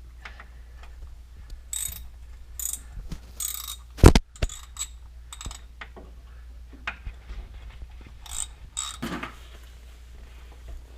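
Hand tools working on bolts under a car during a transmission removal: a ratchet wrench clicking in short bursts among scattered metal clinks, with one loud sharp clank about four seconds in.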